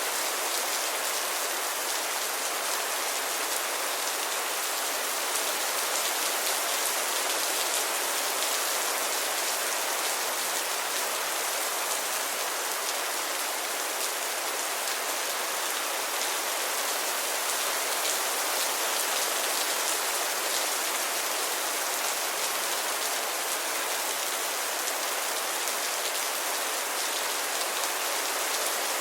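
Steady, even rainfall, with a dense patter of drops hitting a surface.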